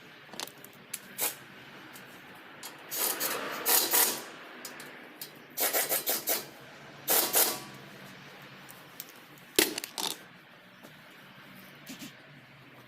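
Hand-tool work on metal: several rasping, scraping strokes in short bursts, mixed with scattered sharp clicks and one loud click or knock late on.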